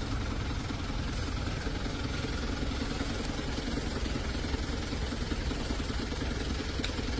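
Dump truck engine running steadily at idle.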